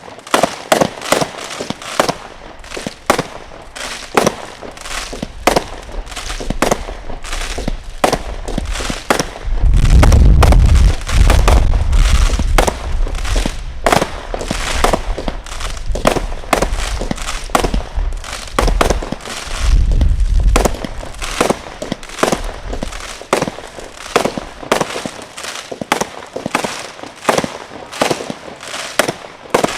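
Consumer firework cakes firing non-stop: a rapid string of sharp bangs, several a second. Heavier deep booms come about ten seconds in and again near twenty seconds.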